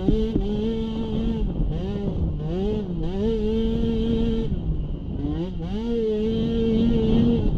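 Small youth-class racing ATV engine under throttle. Its pitch climbs and holds steady at high revs, then dips with brief throttle lifts about four or five times and climbs again each time.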